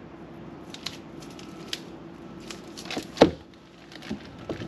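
A few light clicks and knocks, the loudest about three seconds in, over a steady low hum.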